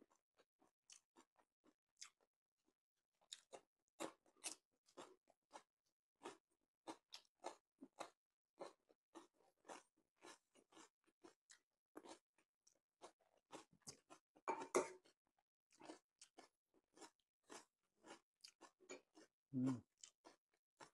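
Close-miked chewing of crisp food, a run of short crunches two or three a second, with a louder crunch about two-thirds of the way in and a dull low thud near the end.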